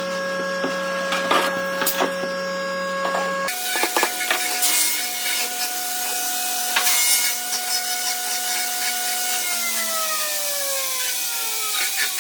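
Electric woodworking power tool running with a steady whine and scattered clicks and knocks of wood, then its motor winding down in falling pitch over the last couple of seconds.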